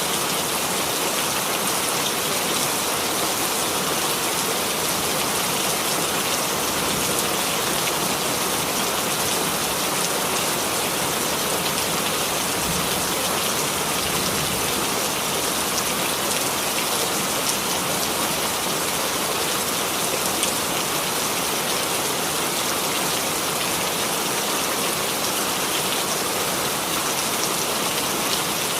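Steady rain falling on a surface, a dense even hiss with many small drop impacts throughout.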